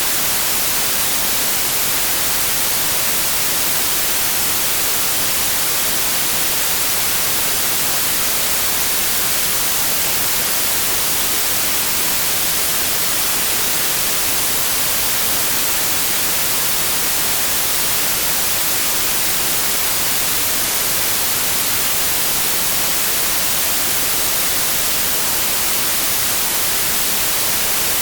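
Synthetic white noise: a steady, unchanging hiss with no rhythm or tones.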